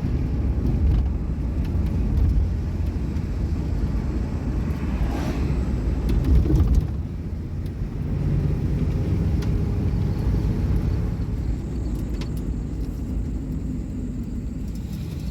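A car driving, with steady low road and engine rumble that swells briefly about six or seven seconds in.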